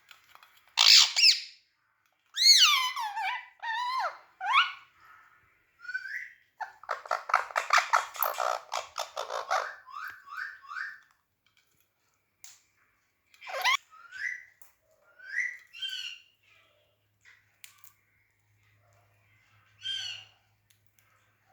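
Pet green parrot calling: whistled notes that sweep downward, a fast chattering run of notes in the middle, then scattered short chirps and squawks with pauses between them.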